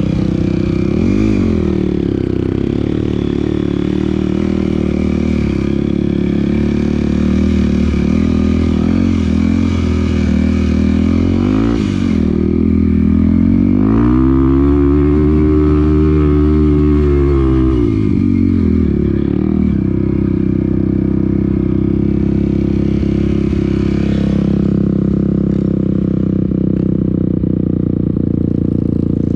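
Off-road motorcycle engine running on a trail ride, its pitch rising and falling with the throttle, with one long rev up and back down about halfway through.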